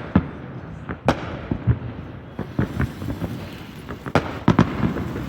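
A consumer ground-fountain firework burning with a steady hiss, broken by about a dozen irregular sharp crackling pops.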